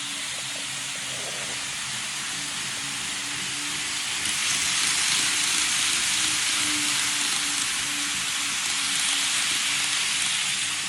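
N gauge model Shinkansen trains running on track: a steady hiss of small wheels rolling on the rails with a faint low hum underneath. It grows louder about four seconds in as the trains come close, then eases near the end.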